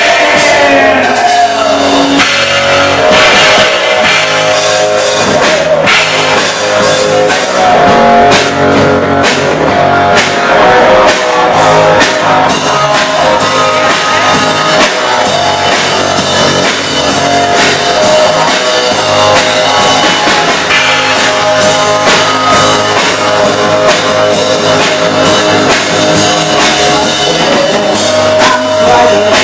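Rock music, an instrumental passage with drum kit and guitar and no vocals.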